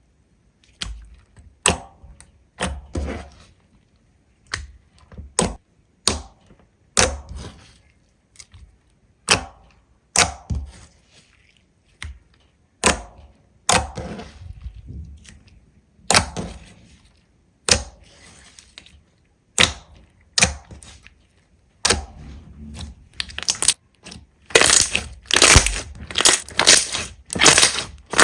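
Slime being pressed and squeezed, giving sharp crackles and pops about once a second, crowding into a rapid run of crunches in the last few seconds.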